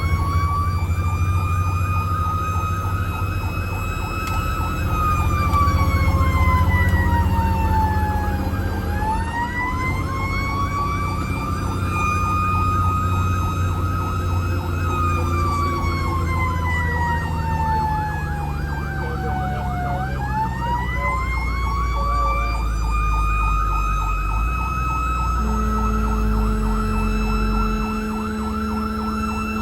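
Fire engine siren wailing in long, slow rises and falls, each fall lasting several seconds, and holding at its high pitch near the end, over the truck's engine running.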